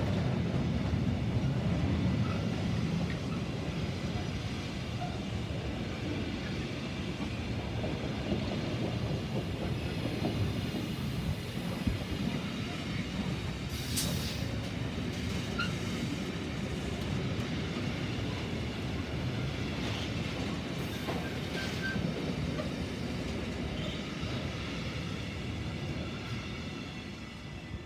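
Intermodal freight train's wagons rolling past with a steady rumble and clatter of wheels on the rails, a thin high wheel squeal running under it, and a sharp click about halfway through. The sound fades away near the end.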